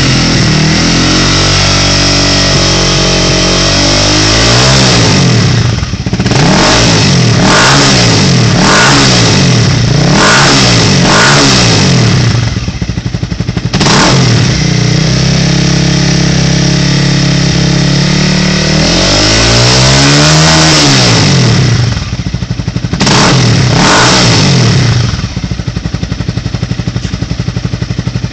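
Honda CBR250 motorcycle engine through a Two Brothers Black Series aftermarket exhaust, idling and then blipped repeatedly in quick revs. In the middle it is held at a raised speed for a few seconds, then revved a few more times before settling back to idle near the end.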